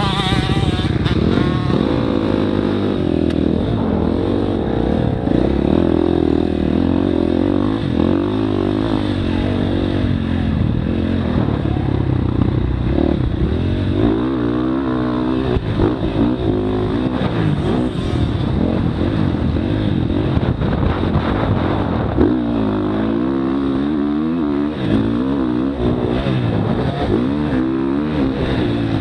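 Motocross bike engine revving hard and backing off over and over, its pitch rising and falling as it is ridden around a dirt track.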